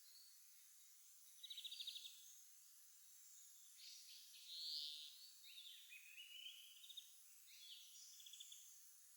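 Songbirds singing faintly over a steady hiss: a rapid trill about a second and a half in, then more trilled phrases and quick note series through the middle and near the end.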